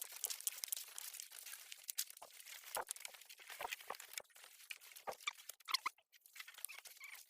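Light crackling and rustling with scattered small clicks, and a pair of short, high, falling squeaks near the end.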